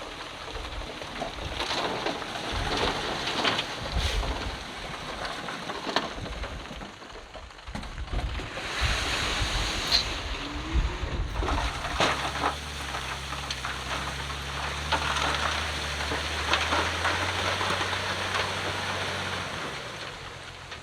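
Loose stone and rock rattling and tumbling with repeated knocks, as heavy earthmoving machinery moves fill. From about twelve seconds in, a diesel engine runs steadily and then eases off near the end.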